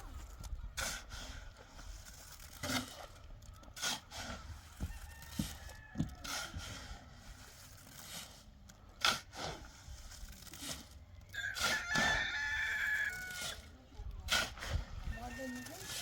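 A rooster crowing once, a single call of about two seconds, a little past the middle. Sharp knocks and thumps are scattered throughout.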